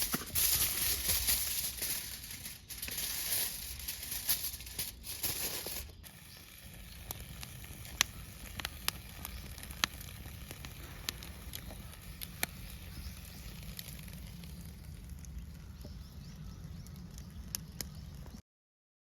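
Loud rustling noise for about six seconds, then a wood campfire crackling, with sharp scattered pops over a low hum. The sound cuts off to silence near the end.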